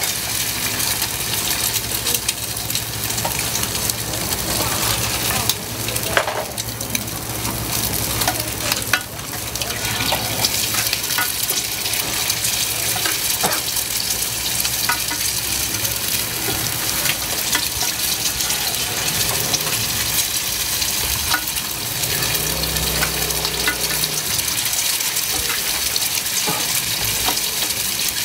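Food sizzling in hot oil, a steady loud hiss, with scattered light clicks and scrapes of a cooking utensil.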